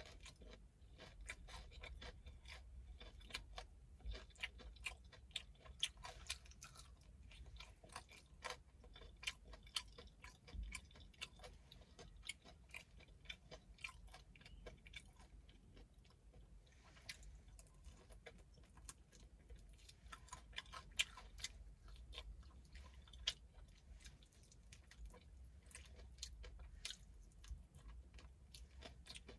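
Close-up chewing of fried chicken: a steady, quiet run of small crunches and wet mouth clicks as the meat is eaten off the bone.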